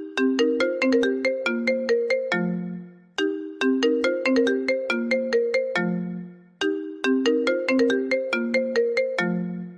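Mobile phone ringtone melody playing on loop: a short phrase of quick, bright, mallet-like notes that ends on a lower held note and fades, repeating about every three and a half seconds.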